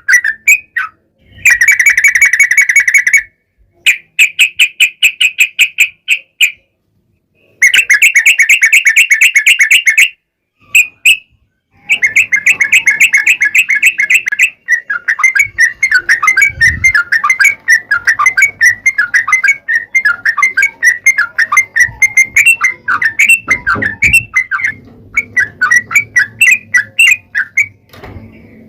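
Yellow-vented bulbul (trucukan) singing. It gives several long, fast trills of rapidly repeated notes, each lasting two to three seconds with short pauses between. These are followed by a long run of varied, bubbling chatter.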